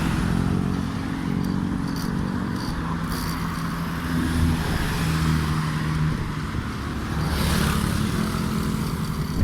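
Road traffic: engines of nearby vehicles running, over a steady hiss of road and wind noise, with a louder rush of noise near the end as a vehicle passes.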